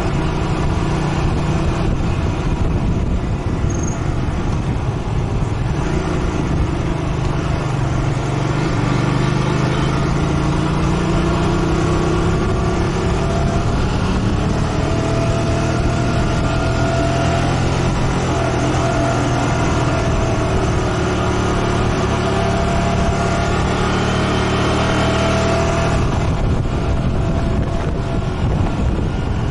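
Motorcycle engine running on the move, over a steady rush of wind and road noise. A few seconds in, the engine note rises as it picks up speed, holds steady, and eases off near the end.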